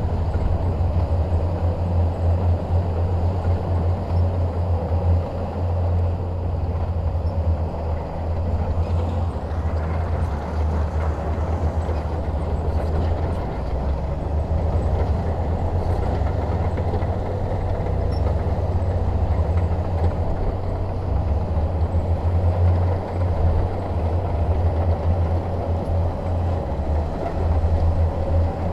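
Bulldozer's diesel engine running steadily with a deep, low throb.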